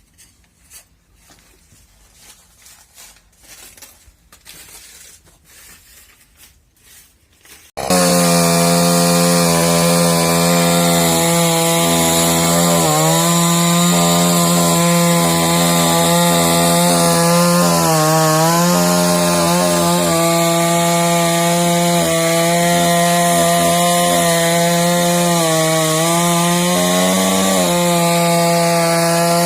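Faint rustling and clicks, then about eight seconds in a chainsaw cuts in loudly, running at high revs as it cuts into a dry, rotten fallen trunk. Its pitch dips briefly several times as the chain loads up in the wood.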